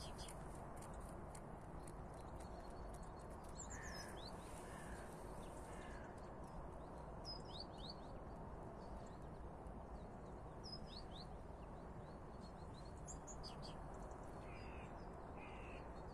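Small birds chirping in the trees: short, high calls scattered throughout, with a few lower calls about four seconds in and again near the end, over steady outdoor background noise.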